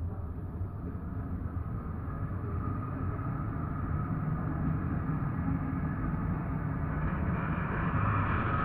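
City tram running on its rails, heard from inside the car, its rumble growing steadily louder, with a high whine coming in near the end.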